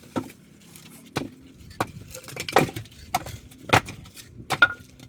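Irregular sharp wooden knocks and clacks, about eight over five seconds: pieces of firewood knocking together as they are handled.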